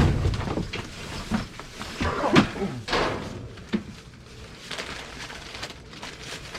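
Irregular thuds and knocks of objects being shifted and bumped inside a metal dumpster, the loudest right at the start and more about two and three seconds in.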